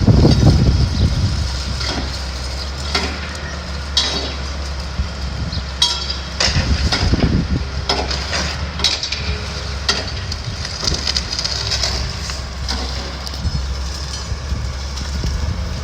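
Excavator engine running steadily while the old wood-framed building is torn down, with repeated sharp cracks and knocks of breaking timber and falling debris.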